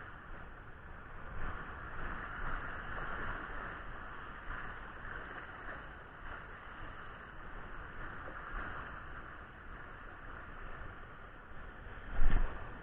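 Steady wash of surf on a beach, swelling and easing, with wind on the microphone. Near the end there is a single loud low bump.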